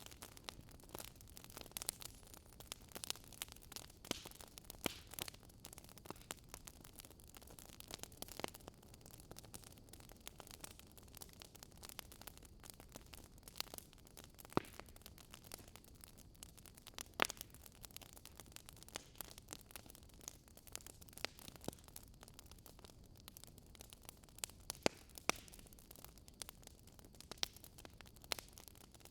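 Fireplace fire crackling softly over a low hiss, with irregular sharp pops and snaps of burning wood.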